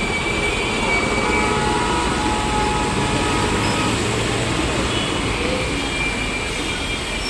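A tram running on its street track amid steady city traffic noise, with faint high steady tones for a few seconds in the middle.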